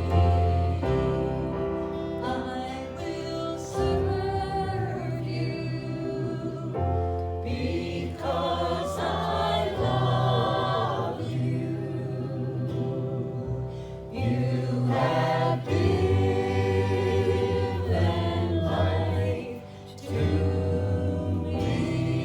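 Voices singing a gospel hymn together, with held low notes underneath, in phrases that break every few seconds.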